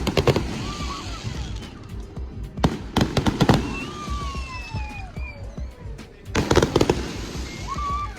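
Fireworks going off in three rapid crackling volleys, at the start, about three seconds in and about six and a half seconds in, with gliding whistle tones between them.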